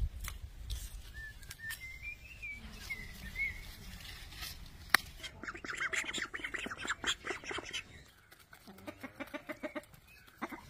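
Birds calling: first a few short rising chirps, then two quick runs of rapidly repeated calls, the second lower-pitched, near the end. A single sharp click comes about halfway through.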